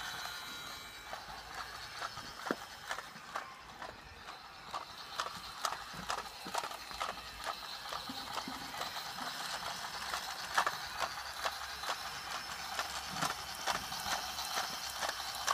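A converted Dickie toy train running as a small permanent way trolley: its little geared motor whirs steadily while the wheels and gears give a stream of irregular clicks, two or three a second. The sound grows a little louder towards the end.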